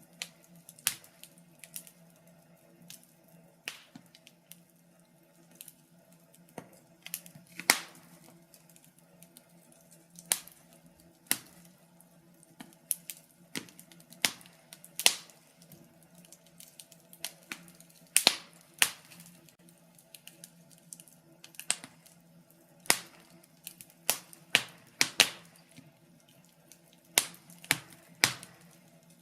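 Wood fire in a fireplace crackling: sharp, irregular pops, often one to three a second, over a faint steady hum.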